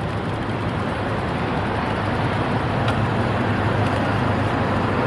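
Steady rush of road and traffic noise heard from a moving bicycle, growing slightly louder, with a single faint click about three seconds in.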